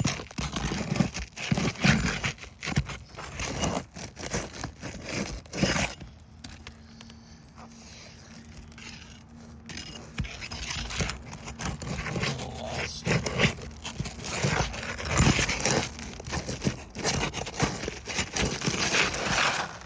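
Asphalt roof shingle being scraped and pried loose with its nails pulled up: irregular scraping and crackling strokes, easing off for a few seconds partway through, then busy again.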